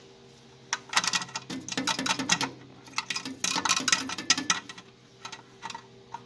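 Steel exhaust downpipe clanking and rattling against metal while it is being test-fitted. A dense run of knocks and clatter lasts about four seconds, then a few single clicks follow, over a faint steady hum.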